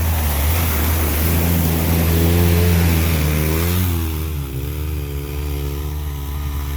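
Side-by-side UTV engine running hard through a creek crossing, revving with its pitch rising and wavering about halfway through, over a rushing hiss.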